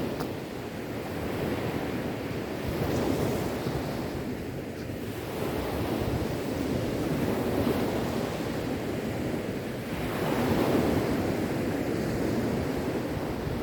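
Sea waves washing onto a shore, the surf swelling and receding every few seconds, with wind noise on the microphone.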